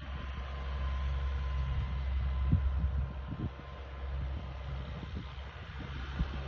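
Mahindra tractor's diesel engine running with a steady low hum, with a few low thumps over it.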